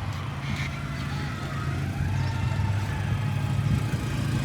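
Steady low rumble of a vehicle engine, with a faint siren wailing in the distance that slowly rises and falls.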